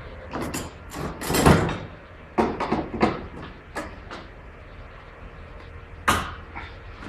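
A run of irregular knocks and clanks: a few quick knocks, a louder, longer clatter about a second and a half in, a cluster of sharper knocks around the third second, and one more sharp knock about six seconds in.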